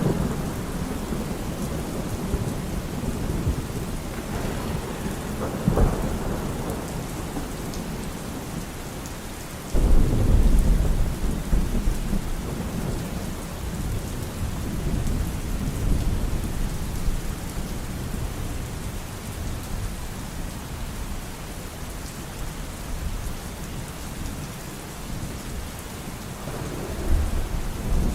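Steady rain with thunder: a sharp crack about six seconds in, then a loud rumble that breaks suddenly about ten seconds in and rolls away over several seconds, and another rumble building near the end.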